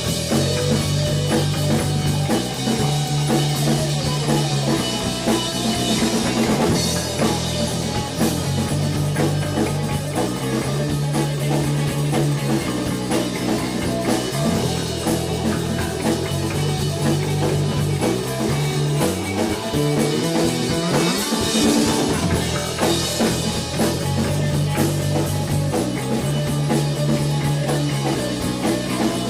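Rock band playing: drum kit, a bass line of held low notes changing every second or two, and electric guitar.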